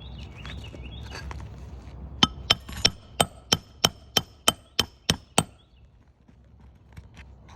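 Hammer driving a nail into a roof shingle: eleven sharp, ringing blows at about three a second, ending a few seconds before the end.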